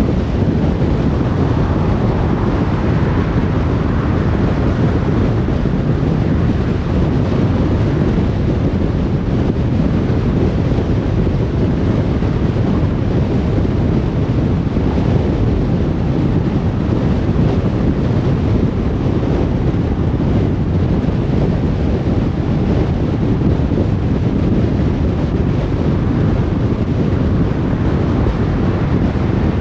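Steady, deep rumble of a car on the move: tyre and wind noise on the road, unchanging throughout.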